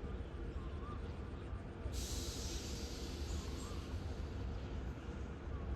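Diesel locomotive engine running steadily with a low drone. About two seconds in, a high hiss starts suddenly and carries on.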